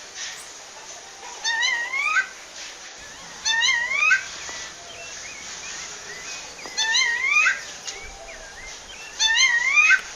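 Female rufous-bellied thrush (sabiá-laranjeira) calling to a male: four repeated rising calls, each under a second long, spaced two to three seconds apart.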